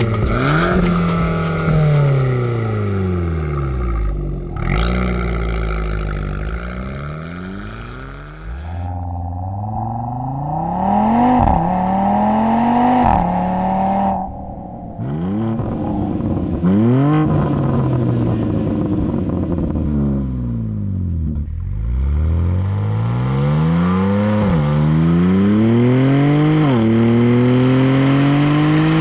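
Performance car's engine heard through a Remus sports exhaust, accelerating hard through the gears: the note climbs, drops sharply at each shift, and climbs again, over and over.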